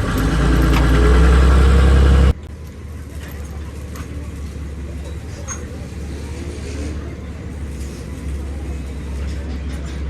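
Hino truck engine running: a loud, steady low rumble for about two seconds, then a sudden cut to a quieter, steady engine rumble.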